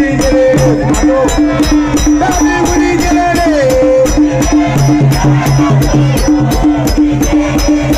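Live band music with a steady beat: a shaker or hi-hat ticking about three times a second over a repeating bass pulse, with a melody line that slides up and down in pitch.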